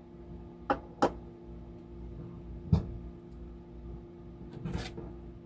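A few sharp clicks and knocks of a utensil against a food container as food is scooped, the third with a dull thud, then a brief scrape near the end, over a steady low hum.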